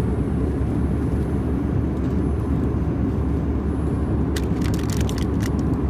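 Steady low cabin drone of an Airbus A320-211 in cruise: engine and airflow noise heard from a seat in the cabin. A few light clicks come near the end.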